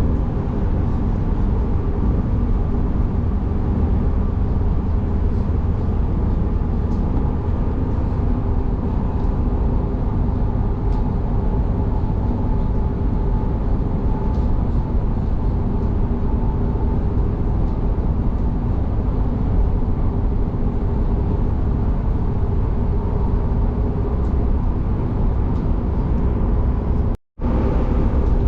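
Train running steadily, a continuous low rumble from wheels on rails and running gear with a faint steady hum over it. The sound cuts out completely for a moment near the end.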